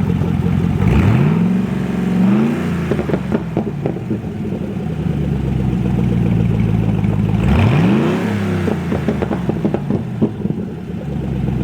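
Supercharged 6.2L LSA V8 from a 2015 Camaro ZL1 idling, revved twice with quick blips that rise and fall back to idle, each followed by a spatter of short clicks as it settles.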